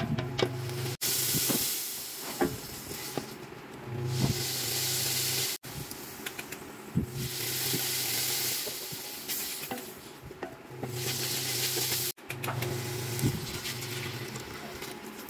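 Shredded chicken, chicken liver and onions sizzling and hissing as they sauté in a stainless steel pot, with scattered clicks and scrapes from the spatula stirring. The sizzle swells and fades, and it breaks off abruptly a few times.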